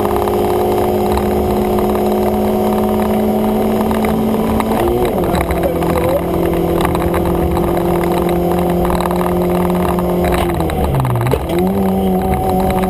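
Fiat Seicento Sporting's 1.2-litre eight-valve four-cylinder engine pulling hard at high, steady revs, heard from inside the cabin. Its pitch drops slightly about five seconds in, then falls sharply just before the end as the driver comes off the throttle, and climbs straight back up.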